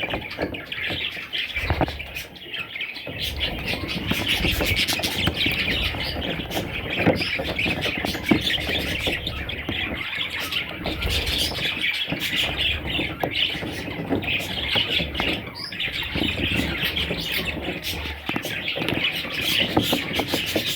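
Budgerigars chattering and squawking continuously, a dense mix of warbles, chirps and sharp calls.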